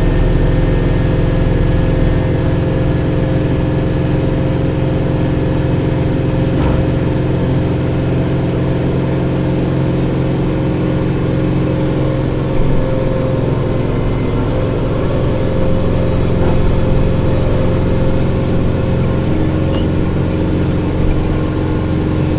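Kubota diesel tractor engine running steadily while it drives a rear-mounted snowblower clearing snow. There is one short knock about halfway through.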